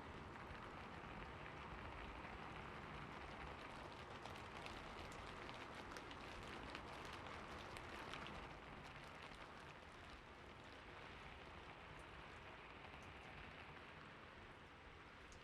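Faint steady rain, an even hiss with many separate drops ticking through it. The drops are thickest in the middle and ease off a little after that.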